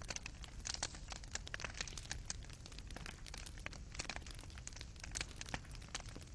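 Fireplace fire burning, with irregular crackles and pops of burning wood and embers over a low steady rumble.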